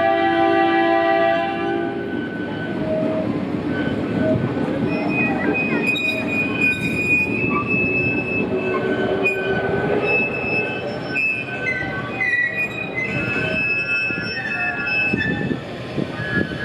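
Narrow-gauge park train sounding its horn, which cuts off about a second and a half in. The train then runs on along curved track with a steady rumble and high wheel squeal that comes and goes.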